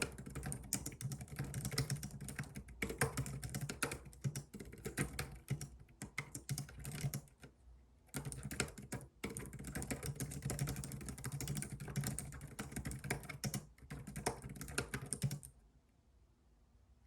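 Fast typing on a computer keyboard: a dense run of key clicks that pauses briefly about eight seconds in, resumes, and stops shortly before the end.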